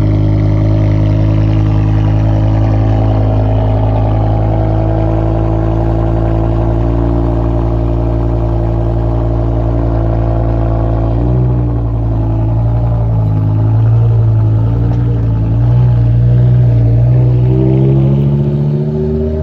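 BMW E60 M5's 5.0-litre V10 running through a straight-piped Eisenmann Race exhaust just after a cold start, holding a steady fast idle. About halfway through the note turns uneven, and near the end it rises as the revs climb.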